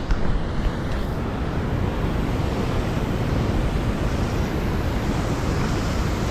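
Wind buffeting the microphone: a steady rushing noise, heaviest and most uneven in the low end.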